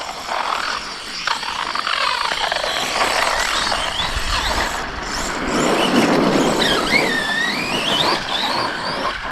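Electric RC stunt trucks with brushless motors being driven. The motor whine rises and falls in pitch as the throttle is worked, strongest in the second half, over a constant rough tyre noise.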